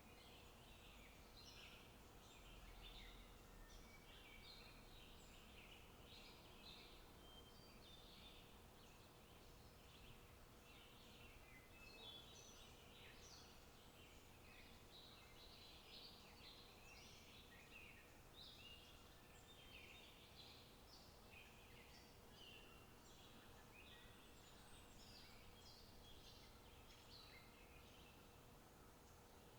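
Faint, continuous chorus of small birds chirping and singing, many short calls overlapping.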